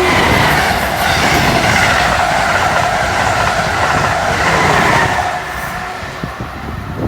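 Amtrak Acela high-speed trainset passing through the station without stopping: a loud, steady rush of wheels on rail and moving air that eases off after about five seconds as the train goes by.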